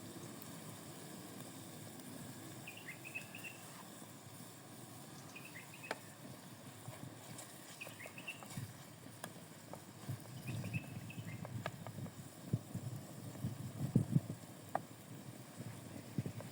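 Quiet outdoor ambience with a small bird's short high chirps repeating about every two to three seconds, and scattered light knocks and taps that grow more frequent toward the end.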